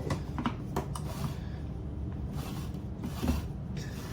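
A few light clicks and knocks in the first second or so, then softer rubbing and scraping: a food processor and toasted pecans being handled as they are readied for chopping.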